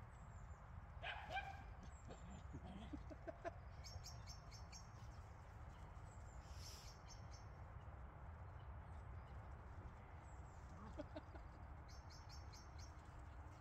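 Faint songbird calls: short high chirping phrases heard several times, over a low steady rumble. A single short call sounds about a second in.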